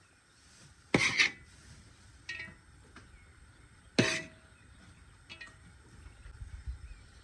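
Metal cookware and utensils clattering: two loud clanks about three seconds apart, the second ringing briefly, with a few lighter clinks in between.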